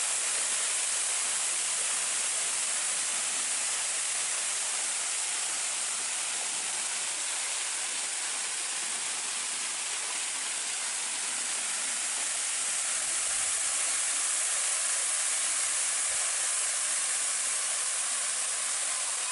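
A waterfall pouring and splashing: a steady, unbroken rush of water, heavy on the high hiss.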